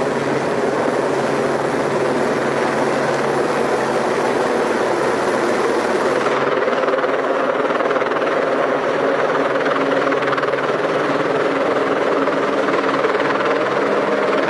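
Helicopter running steadily, loud and unbroken, most likely an added sound effect; its high hiss drops away about six seconds in.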